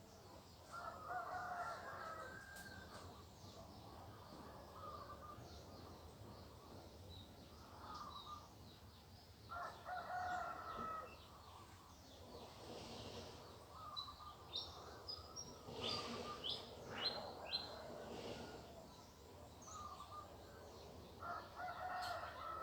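Roosters crowing three times, about ten seconds apart, each crow lasting over a second, with the last one cut off at the end. Between the crows, small birds chirp in quick high notes.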